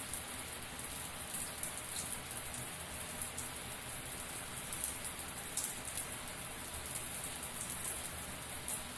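Shower water spraying steadily, with a dense patter of drops striking a surface.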